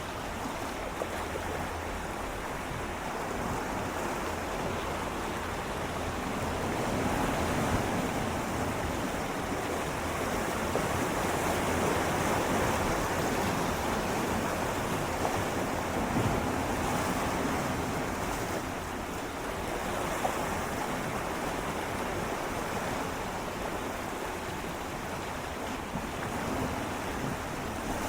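Gentle sea waves swirling and lapping against shoreline rocks, a steady wash that swells and eases slowly, louder in the middle.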